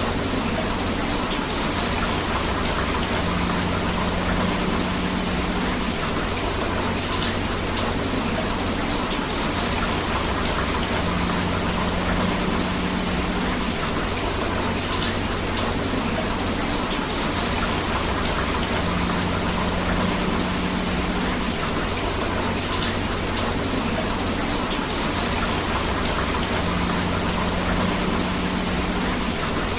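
Steady rain with rushing river water, an even, unbroken wash of noise. A faint low hum rises and fades about every eight seconds.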